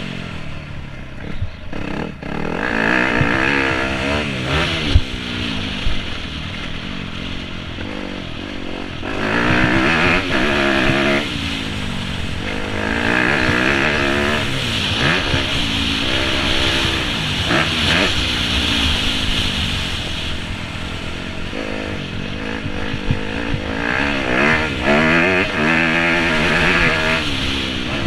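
Yamaha YZ250F four-stroke motocross engine heard on board, revving up and down over and over as the throttle is opened and closed through the track's sections, with clatter from the bike over the bumps.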